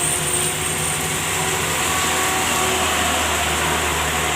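A heavy truck's diesel engine running, its low drone growing stronger in the second half, over a steady hiss of heavy rain.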